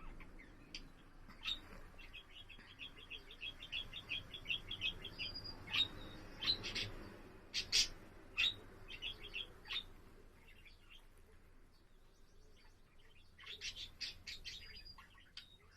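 Pet budgerigar warbling: a quick run of short chirps, then louder, sharper chirps in the middle, a quieter stretch, and another burst of chirps near the end.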